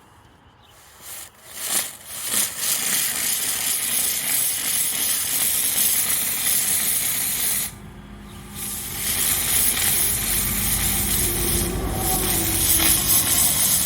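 Steamer machine spraying steam onto a yellowed plastic headlight lens: a steady hiss. It starts with a few short spurts about a second in and stops briefly around the middle before resuming.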